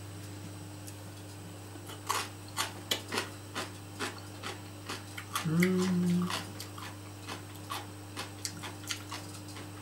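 Chewing crunchy marinated daikon radish: a run of short crisp crunches, about two a second, with a short hummed 'mmm' about halfway through, over a steady low hum.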